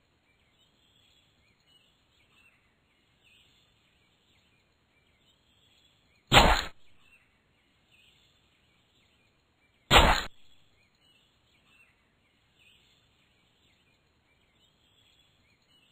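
Faint small-bird chirps repeating in the background, broken twice by a sudden loud knock, about three and a half seconds apart.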